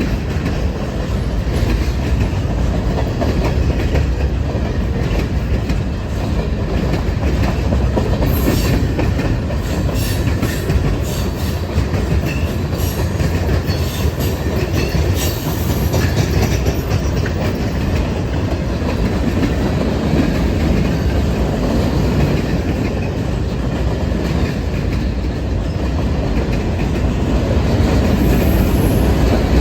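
Norfolk Southern freight train rolling by, its cars' wheels clacking over the rail joints with a steady low rumble. A run of brief high-pitched wheel squeaks and clicks comes about a third of the way in.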